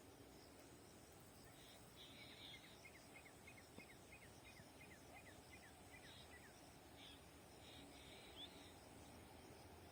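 Near silence: faint outdoor ambience, with a bird giving a run of short, falling chirps, about three a second, from about two seconds in until past the middle.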